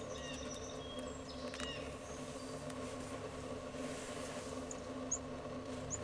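Small birds giving a few short, thin, high chirps, several near the start and a couple of quick ones near the end, over a steady low hum. One light tap sounds about a second and a half in.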